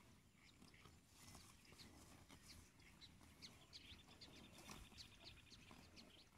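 Faint birds chirping with scattered short calls, and a rapid trill of evenly spaced notes starting about four seconds in and lasting over a second, over a low rumble.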